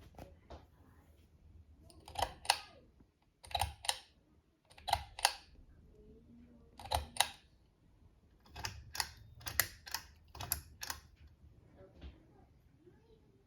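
Sharp mechanical clicks: four pairs, each pair about a third of a second apart and the pairs a second or more apart, then a quicker run of about eight clicks, over a faint low hum.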